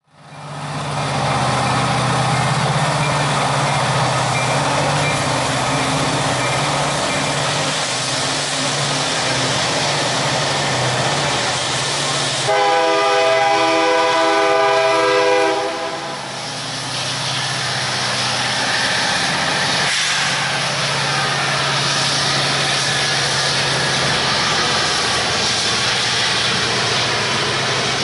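Canadian National freight train hauled by two EMD SD75I and one GE ET44AC diesel locomotives passing, diesel engines running over the steady rush of wheels on rail. About halfway through, the locomotive horn sounds one long, steady blast of about three seconds.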